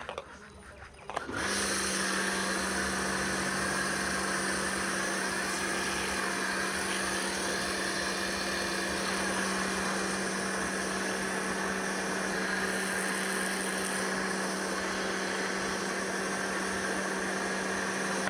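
Pressure washer motor and pump running steadily with a constant hum and spray hiss; it cuts out just at the start and starts up again about a second in.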